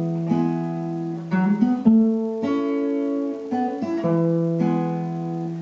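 Acoustic guitar strumming chords, a new chord struck every second or so and left ringing.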